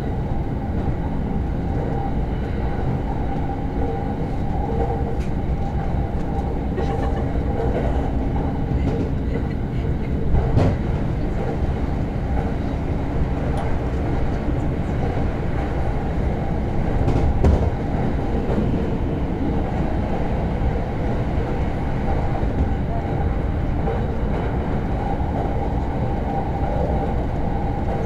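An electric commuter train running at speed, heard inside the passenger car: a steady rumble of wheels on rail and running gear. There are two louder knocks from the track, about ten and seventeen seconds in.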